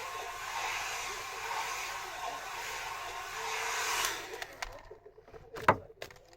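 Hand-held hair dryer blowing steadily, switched off about four seconds in. A few light clicks follow, then a single sharp knock near the end.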